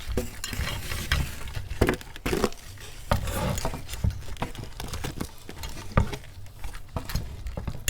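Utensils scraping and clicking against a plate while cheesy Doritos nachos are scooped, with the chips crackling and crunching in irregular clicks.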